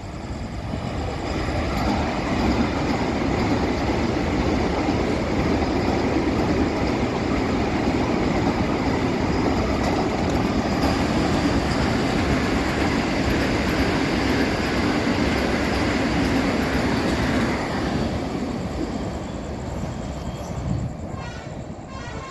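An express train passing at speed: a steady rumble and rattle of wheels on the rails that swells over the first two seconds, holds, and fades after about eighteen seconds, with a short run of rhythmic wheel clicks near the end.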